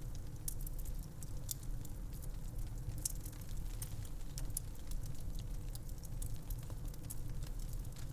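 Wood fire crackling with frequent sharp pops and snaps over a steady low rumble of wind.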